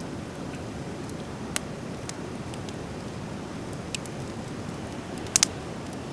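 Driftwood fire burning, with scattered sharp crackling pops and a loud double pop about five seconds in, over a steady low rushing noise.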